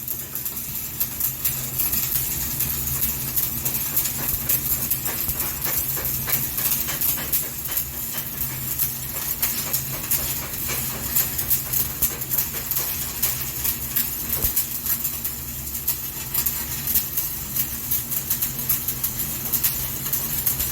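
Electric arc welding: the arc giving a continuous crackling sizzle, with a steady low hum underneath.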